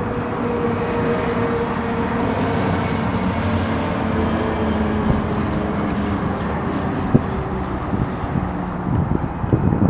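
Aircraft engine drone: a steady roar with a few held tones that slowly sink in pitch, over wind noise on the microphone.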